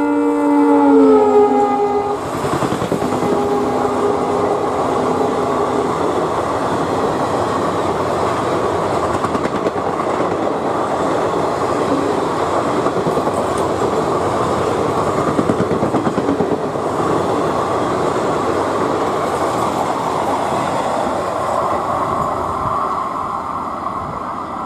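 Multi-tone horn of an EMD WDP-4 class diesel locomotive sounding as the train comes through at speed; its pitch drops as the locomotive passes, about two seconds in. Then a long passenger train's coaches rush past with steady wheel rumble and clickety-clack, which eases off near the end.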